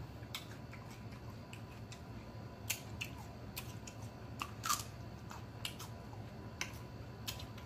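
A person chewing a mouthful of raw celery: irregular crisp crunches and mouth clicks, a couple of them louder about three and five seconds in.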